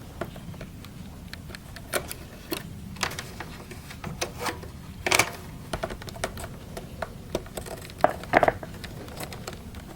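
Plastic vacuum-cleaner parts being handled and fitted together by hand: irregular small clicks, taps and rubbing, with a louder knock about five seconds in and a short cluster near the end.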